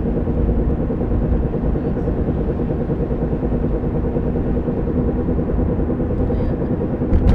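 1993 Honda Civic EX coupe running, a steady drone with a constant low hum, the kind of noise the owner takes for a bad bearing.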